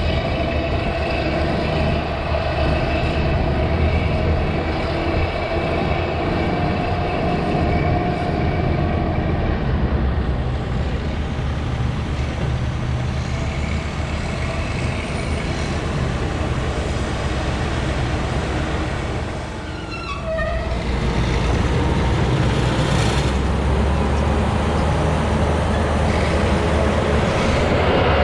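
Heavy diesel engines of farm tractors and snowcat groomers running and working under load. There is a short run of high squeaks about twenty seconds in, as the engine note briefly drops.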